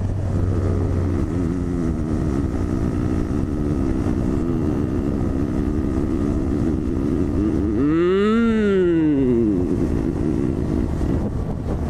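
Honda CB1000R inline-four engine running while riding, with wind rushing over the microphone. About eight seconds in, the engine note rises sharply and falls back once.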